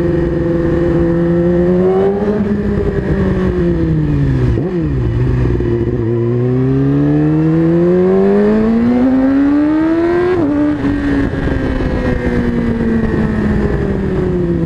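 A 2017 Yamaha R6's inline-four with an Akrapovič full titanium exhaust, ridden on the road. After a brief rise and dip in pitch, it climbs steadily under throttle for about four seconds. The pitch drops sharply at a gear change about ten seconds in, then falls slowly as the bike eases off.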